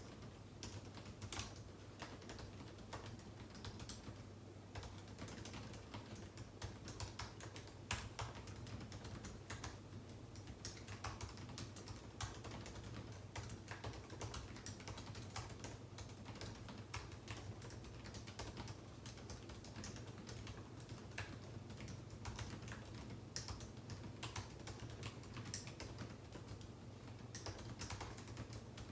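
Typing on a computer keyboard: a faint, irregular stream of quick keystroke clicks with short pauses, over a steady low hum.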